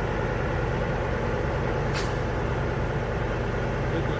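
Heavy truck engine idling steadily, with one short sharp air hiss, like an air brake, about two seconds in.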